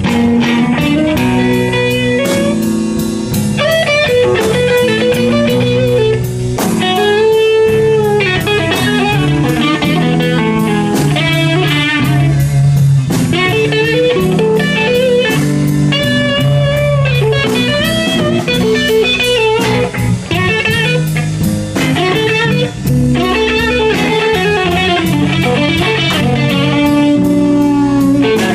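Live blues band playing: an electric guitar plays lead lines with bent notes over a steady drum beat.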